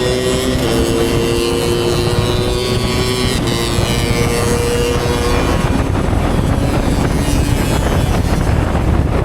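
Motorcycle engine running at steady revs while riding, its note easing slightly lower and fading about five and a half seconds in, under heavy wind noise on the microphone.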